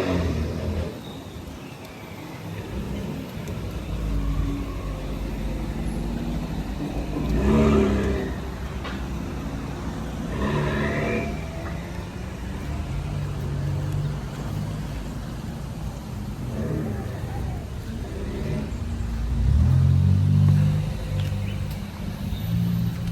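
Car engines running, a low rumble that swells louder about two-thirds of the way through, with people talking in the background now and then.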